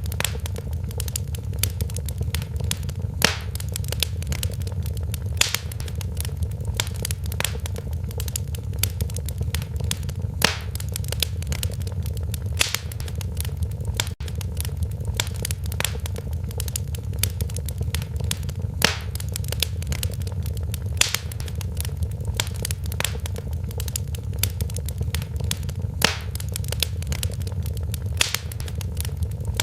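Wood fire crackling in a fireplace: a steady low rumble under constant small snaps, with a louder pop every few seconds.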